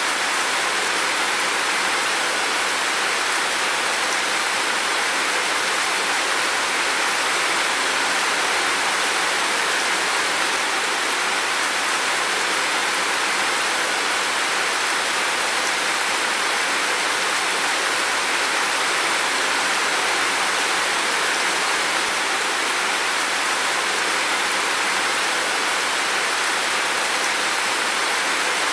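Heavy rain falling in a steady, dense hiss with no distinct drops or thunder.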